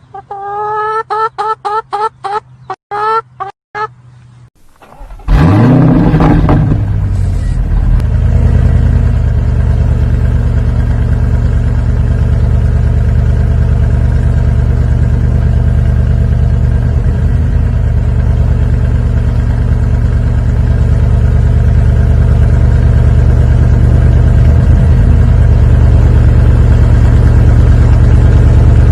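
A quick run of short chirping tones for the first four seconds. Then a car engine starts loudly about five seconds in, its pitch briefly climbing and settling, and runs steadily at idle for the rest.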